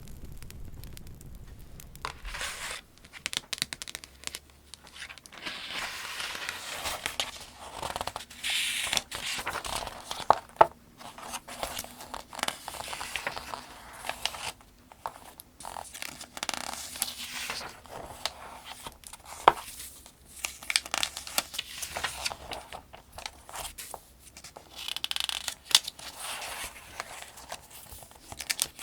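Paper pages of the 2025 Farmers' Almanac being turned one after another: repeated swishing and crinkling every few seconds, with a few sharp snaps of paper.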